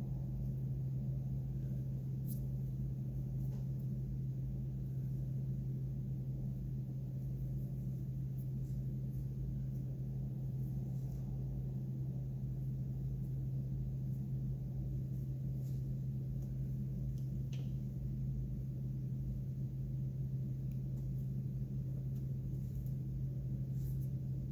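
A steady low hum throughout, with a few faint small clicks.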